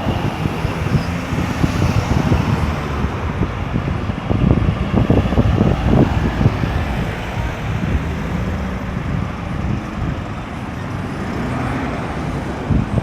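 Road traffic at a busy roundabout: cars, buses and trucks passing with engines running and tyres on the road, engine notes rising and falling as vehicles pull through.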